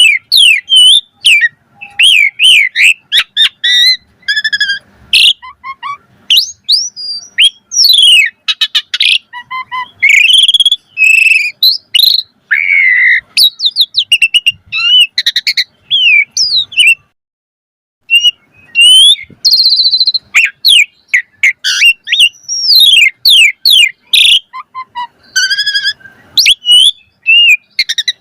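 Asian pied starling (jalak suren) singing loudly: a fast, varied stream of sliding whistles, chirps and squeaky phrases, the kind of song full of mimicked calls that keepers play to get their own starling singing. The song breaks off for about a second a little past the middle, then carries on.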